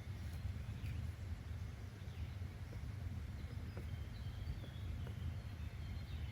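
Outdoor nature ambience: a steady low rumble under a soft hiss, with faint bird chirps, a few short high calls about four to five seconds in.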